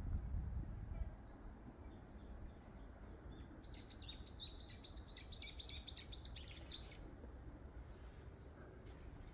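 Songbird singing a quick run of about a dozen high, falling notes, roughly three a second, in the middle, with fainter high twittering before and after. A low rumble fills the first second.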